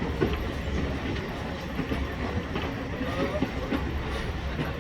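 Train rolling into a station: a steady low rumble with irregular wheel knocks over the rail joints.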